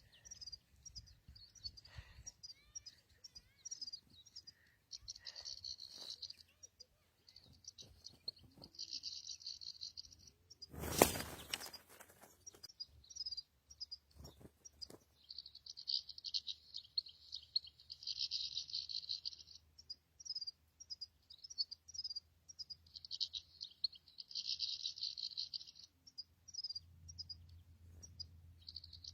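European goldfinch singing: bursts of high, fast twittering repeated with short pauses. A single loud noise about eleven seconds in lasts about a second.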